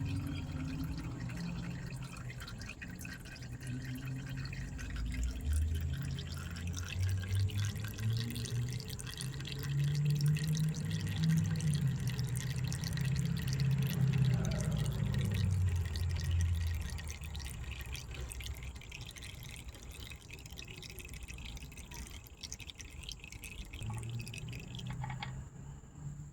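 Used engine oil draining from the pan of a Ram 1500's 3.6 V6 into a bucket, running and dripping steadily, oil that is overfull and suspected of being thinned by fuel from a leaking injector. A low rumbling drone swells in the middle and fades.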